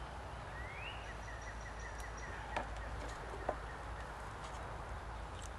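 A songbird calls faintly: a rising note that runs into a short string of quick repeated notes in the first half, over steady outdoor background noise. Two light clicks follow about midway.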